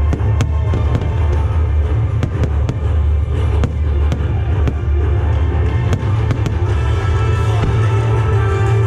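Fireworks bursting in quick cracks and pops over loud music played through the show's loudspeakers, with a heavy low rumble underneath. The cracks thin out near the end.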